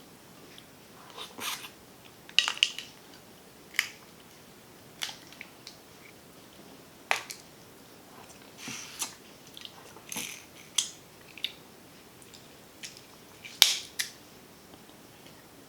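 Close-miked mukbang eating of snow crab and shrimp: sharp cracks and clicks of shell and wet biting and chewing noises, coming in short irregular bursts with quiet between.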